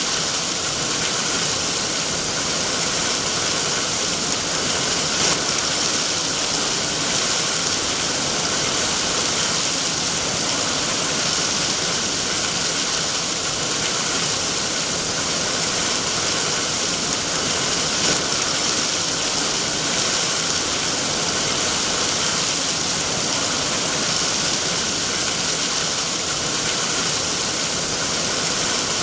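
Heavy rain falling in a steady, even hiss, with no letup.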